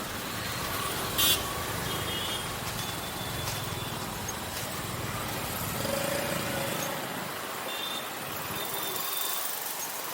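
Motorcycle running through street traffic, with steady engine and road noise and a few short high beeps from around it; the engine hum fades near the end.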